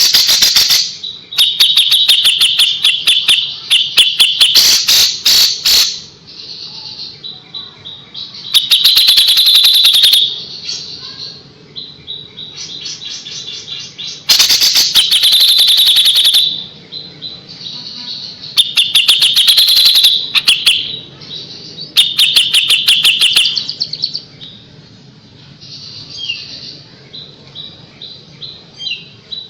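Kapas tembak songbird singing: loud phrases of rapid, sharp, high-pitched 'shot' notes, each lasting one to two seconds, repeated with short pauses and softer twittering between them.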